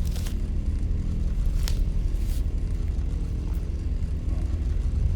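Low, steady droning rumble from the music video's intro soundtrack, with a few brief whooshing sound effects over it, near the start and about two seconds in.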